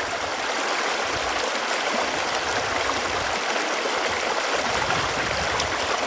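Running water flowing steadily: an even rushing hiss with no breaks, its energy in the middle and upper range.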